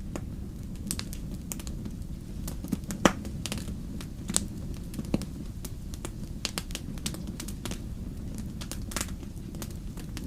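Wood campfire burning: a steady low rumble of flames with frequent irregular crackles and pops of burning logs, the sharpest pop about three seconds in.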